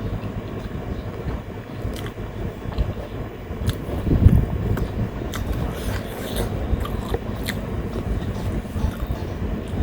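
Close-miked eating sounds: chewing and lip smacks with scattered small clicks, over the steady hum of an electric fan.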